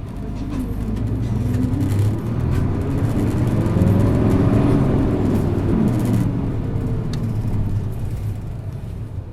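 Isuzu Erga city bus's inline-six diesel engine pulling hard under acceleration: the engine note climbs and grows louder for about four seconds, then eases back down as the bus settles.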